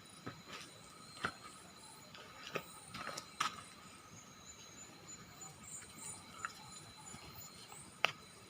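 Night insects, crickets and the like, keep up a steady high-pitched trilling and chirring. Now and then there are sharp clicks and snaps, the loudest near the end.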